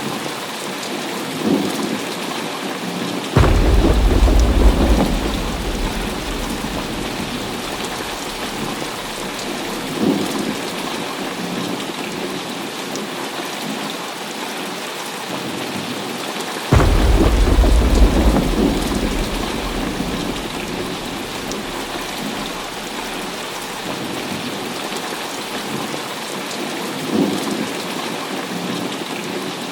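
Heavy rain falling steadily, with two deep thunder rumbles that break in suddenly, about three seconds in and again just past the middle, each fading away over several seconds.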